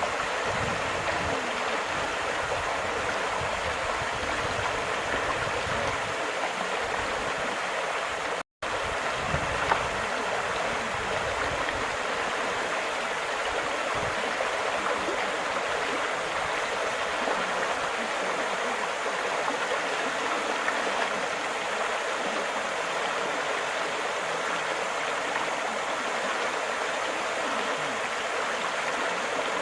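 Steady rushing of flowing water, a stream or rapids, with a brief dropout about eight seconds in.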